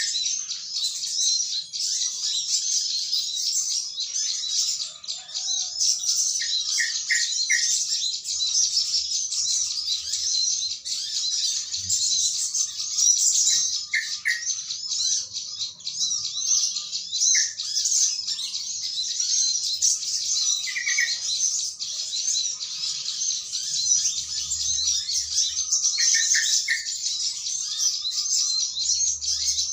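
A dense chorus of many small birds chirping busily and without pause, among them yellow-vented bulbuls calling to one another. Short groups of two or three lower, clearer notes stand out every few seconds.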